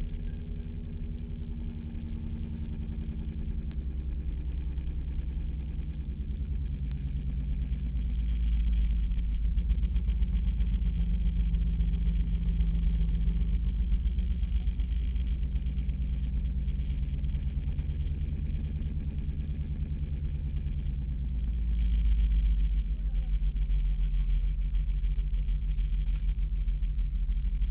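Opel Corsa's engine heard from inside the cabin while lapping a race track, its note rising and falling in pitch through the gears, growing louder about eight seconds in and again near the end.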